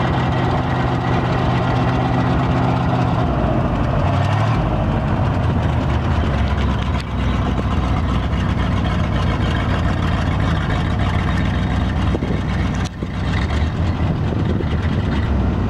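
International grain truck's engine running steadily at idle; its note changes about four seconds in and dips briefly near the end.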